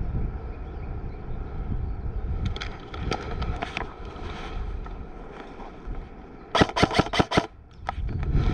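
Airsoft electric gun firing a quick burst of about seven shots, each a sharp crack, a little over halfway through, over steady low rumble of wind and movement on the headcam microphone.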